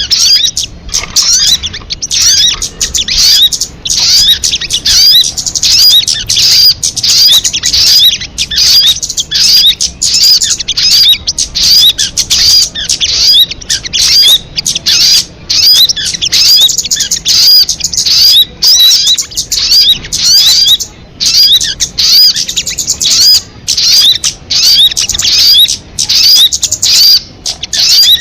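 Sogon bird song: a loud, continuous stream of rapid high chirps and twitters repeated with only brief breaks, as on bird-keepers' MP3 recordings used for luring or tutoring birds.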